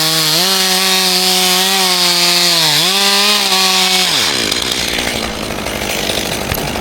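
Two-stroke chainsaw at full throttle cutting wood; its pitch sags twice as it loads up in the cut. About four seconds in the throttle is released, the revs fall away, and a rougher low running sound follows.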